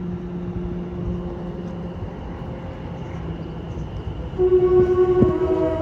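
Class 720 electric multiple unit pulling out with a steady hum, then, about four and a half seconds in, the driver sounds its horn: a loud two-tone blast that drops in pitch and comes back up, the loudest sound here.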